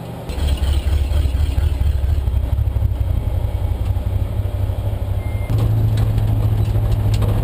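BMW E30 325i's straight-six engine running at low speed, heard inside the stripped race car's cabin as a steady low drone that steps up slightly in pitch about five and a half seconds in. The driver hears it as not sounding good; the engine has overheated and blown its head gasket.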